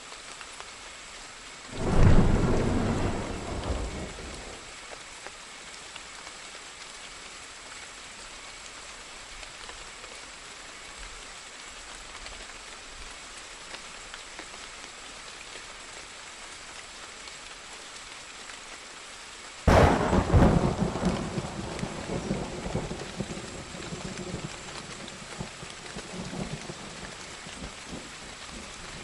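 Steady rain with two claps of thunder: one about two seconds in that dies away within a couple of seconds, and a sharper one about two-thirds of the way through that rolls on in rumbles for several seconds.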